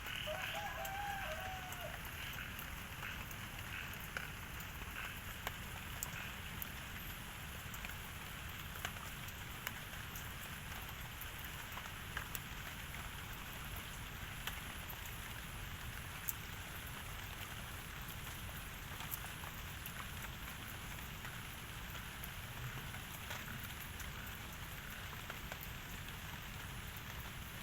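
Steady outdoor hiss with scattered light ticks, like raindrops falling. A short bird call, such as a chicken's, sounds about a second in.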